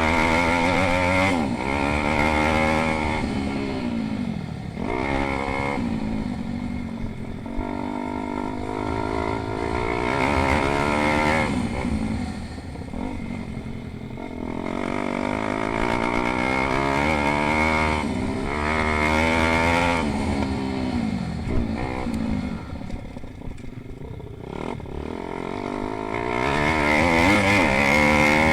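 Several pit bike engines revving hard and dropping back again and again, their pitch climbing and falling as the bikes accelerate and brake around the track.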